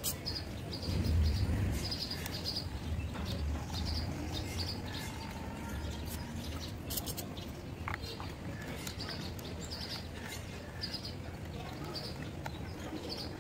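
Birds chirping over and over in short calls, with a low handling rumble and a few faint clicks as a screwdriver drives small screws into a plastic toy car bumper.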